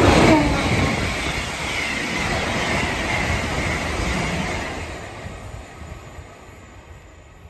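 LNER Azuma high-speed train passing at speed, loudest as the front goes by at the start, with a tone that falls in pitch. Then the steady rush of the coaches' wheels on the rails, which fades away over the last few seconds as the train recedes.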